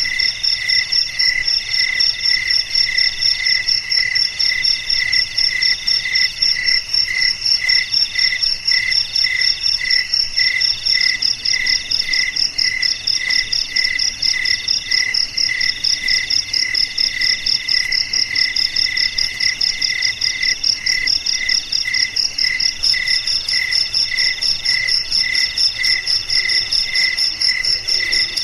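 Crickets chirping, several at once: one chirps in even pulses about three times a second, while others keep up higher, faster trills over it, steady throughout.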